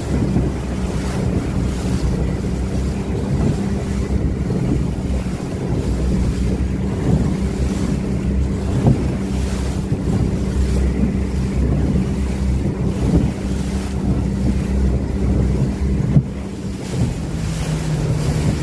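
Small boat's outboard motor running steadily under load through choppy, wind-driven waves, with wind buffeting the microphone and water slapping the hull. About sixteen seconds in the engine note drops as the throttle is eased.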